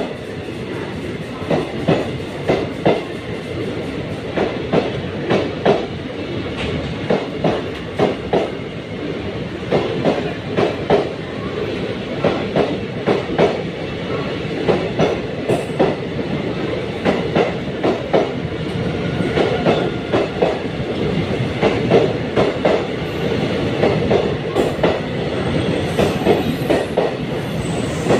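Indian Railways express passenger coaches rolling past at low speed as the train pulls out of the station, their wheels clacking over the rail joints in a steady rhythm of paired knocks over a continuous rumble.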